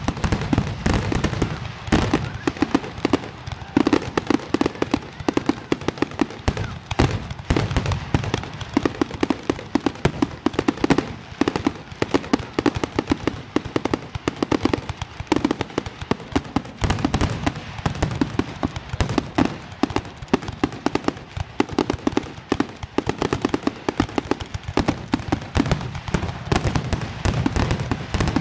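Aerial fireworks display going off in a dense, rapid barrage of bangs and crackles, many reports a second.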